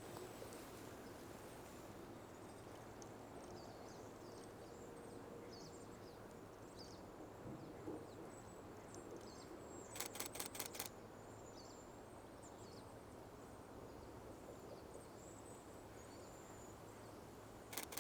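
Faint, high, thin cedar waxwing calls repeating throughout, with a quick burst of about six camera shutter clicks from a Nikon Z6 II about ten seconds in, and another burst starting at the very end.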